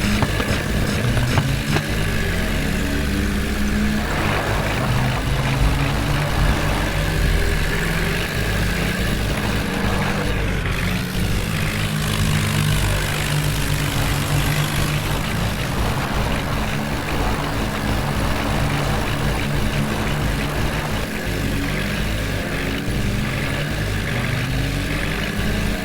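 Heavy diesel engine running steadily, its low drone shifting slightly every few seconds.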